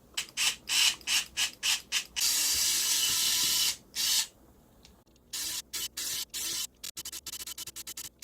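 Abrasive hand rubbing on a cello body during restoration: quick back-and-forth strokes, one longer unbroken hiss about two seconds in, and faster, shorter strokes near the end.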